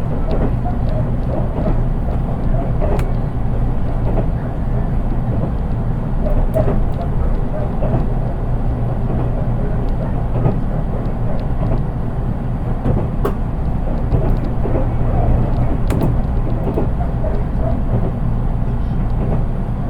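Interior running noise of a JR East 183 series express-type EMU, recorded in a KuHa trailer cab car with no traction motors underneath, so the sound is plain: a steady low rumble of wheels on rail with scattered clicks and knocks.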